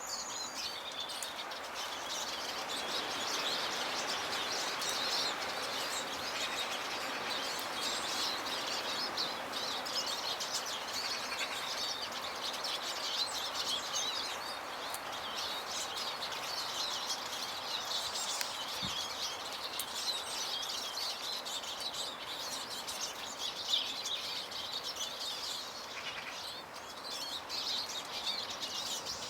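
Small garden birds such as finches and tits chirping and twittering in a continuous overlapping chatter, over a steady background noise.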